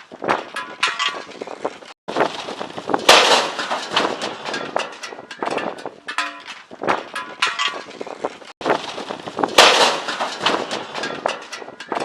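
A barbecue grill blown over by high wind: constant clattering and banging of metal, with a loud crash about three seconds in and again near ten seconds.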